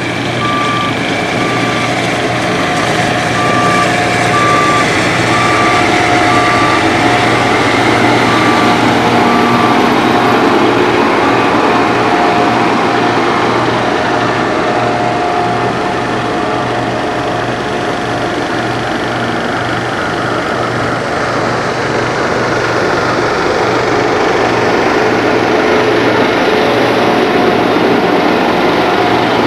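Heavy road-construction machinery running with a loud, steady engine drone. A reversing alarm beeps about once a second through the first half, then stops.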